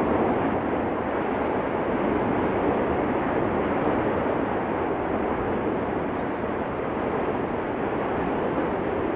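Steady, unbroken roar of the erupting Cumbre Vieja fissure volcano, a rushing noise with no pitch and no breaks.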